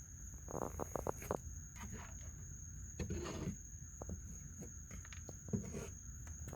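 Night insects such as crickets trilling in one steady, high-pitched tone, with scattered small clicks and crunches from a raccoon eating from its food bowl, bunched a little after the start and again about three seconds in.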